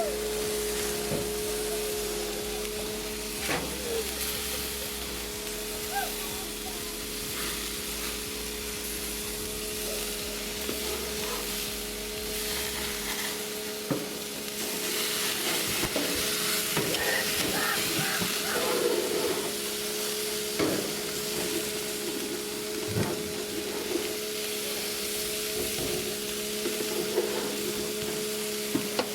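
Hamburger patties sizzling on a grill, a steady frying hiss with occasional small clicks and a steady low hum underneath.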